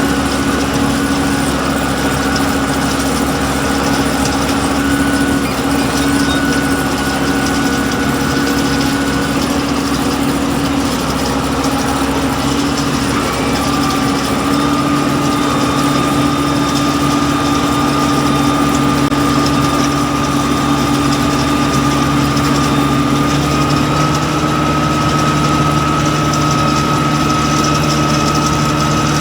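Tractor engine running steadily with its machinery, a constant drone with a whining tone that shifts slightly in pitch about halfway through and again near the end.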